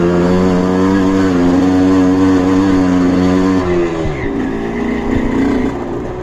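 Trail motorcycle engine running hard at a steady pitch, then easing off about two-thirds of the way through, when the engine note drops and settles lower.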